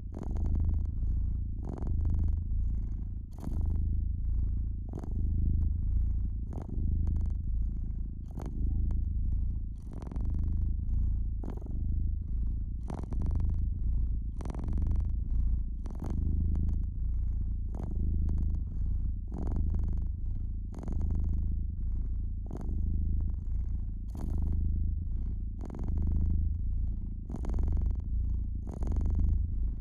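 Domestic cat purring close up, a steady low rumble that rises and falls with each breath, about one cycle every one and a half to two seconds. Irregular sharp crackles and pops from a wood fire sound through it.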